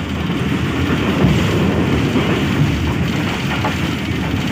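Passenger train coach running at about 80 km/h, heard from inside: steady low rumble and clatter of wheels on the rails, with a few short knocks. The track is old and unrepaired after flood damage, and the ride is rough.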